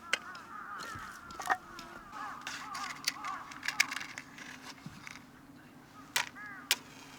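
Birds calling in quick repeated short notes, with several sharp cracks breaking in, the loudest about six seconds in.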